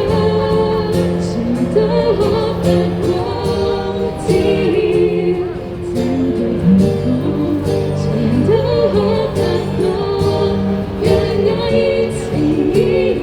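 A live band playing a song with a lead singer, the sung melody over sustained accompaniment and a steady beat of percussion.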